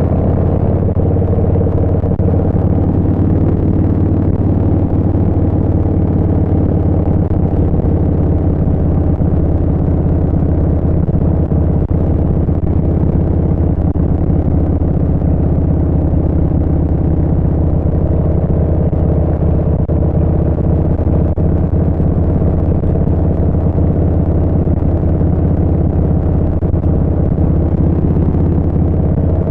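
Harley-Davidson Street Bob 114's Milwaukee-Eight V-twin through a Vance & Hines Short Shots full exhaust system, running at a steady cruising pace with no marked revving or shifting.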